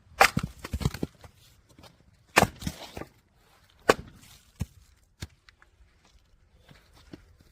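Firewood being split: three loud, sharp strikes about two seconds apart, with smaller knocks and clatter of wood between them.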